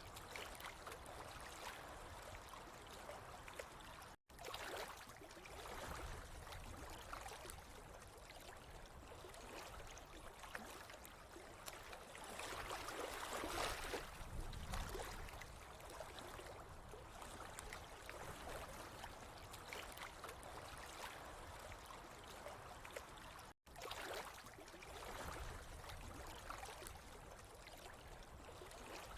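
Running water trickling and gurgling in a faint, steady wash that swells a little midway. It cuts out for an instant twice.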